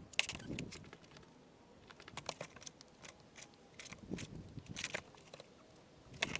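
Irregular light clicks and taps, with a few duller knocks, from stones and tools being handled while a stone arch is laid.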